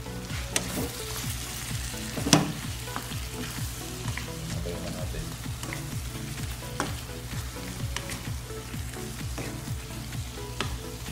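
Beef and carrot chunks in a thick tomato-based kaldereta sauce sizzling in a non-stick frying pan, with scattered clicks of a utensil against the pan and one sharp knock about two seconds in.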